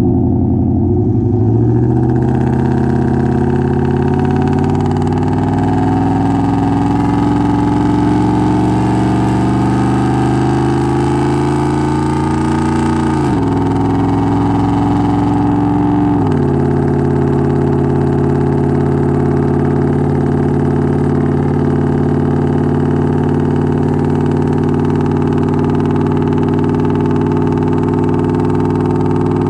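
2013 Roush F-150's V8 exhaust with the catalytic converters cut out, heard close from the tailgate while the truck pulls away under light acceleration. Engine pitch climbs, drops at an upshift about 13 seconds in, climbs again, drops at a second upshift a few seconds later, then holds steady while cruising.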